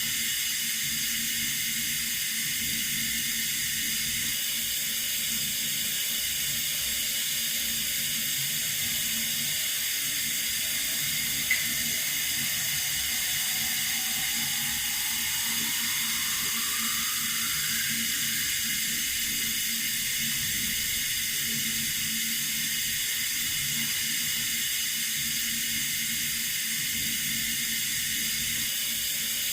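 Water running from a tap in a steady hiss, with one short click about a third of the way in and a faint tone rising slowly in pitch just after it.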